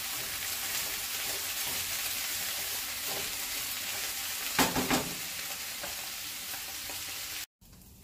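Diced onion, bell pepper and mushrooms sizzling in a hot nonstick pan as they are stirred with a wooden spoon, with two louder knocks of the spoon against the pan about halfway through. The sizzle cuts off suddenly near the end.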